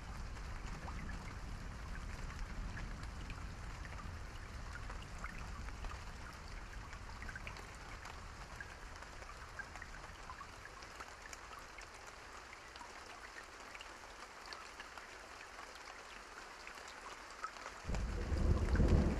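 Steady rain with scattered pattering drops, while a low thunder rumble dies away over the first half. A loud clap of thunder breaks in about a second before the end.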